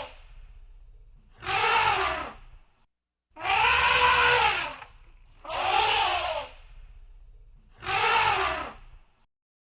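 Elephant trumpeting: four loud, brassy calls about two seconds apart, each rising and then falling in pitch.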